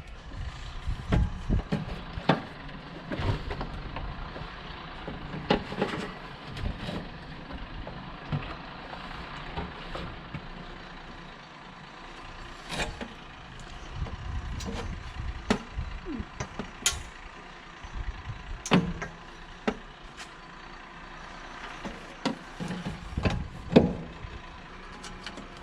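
Irregular knocks, clicks and clanks of hand tools working on metal over a steady background hiss, as stubborn exhaust fittings are worked loose on a skid-steer.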